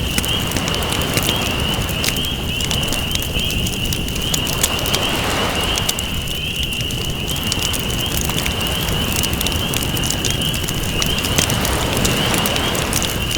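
Crackling campfire, sharp pops scattered over a wash of ocean waves that swell in twice, with a steady high trill above.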